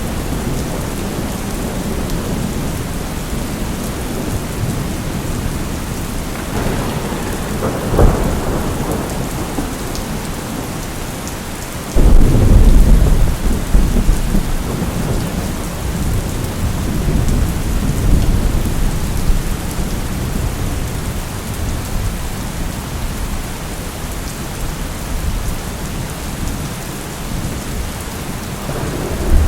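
Steady rain with a thunderstorm. A sharp crack of thunder comes about eight seconds in, then a loud clap about twelve seconds in rumbles on for several seconds, and another peal begins near the end.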